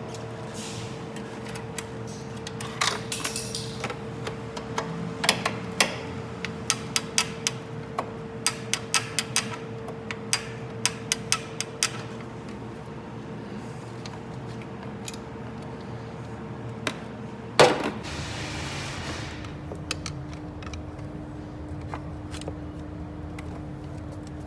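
Hand tools working on metal engine parts: sharp clicks and clinks, a few a second for several seconds, over a steady hum. Near the end a loud click comes, and the hum drops to a lower pitch.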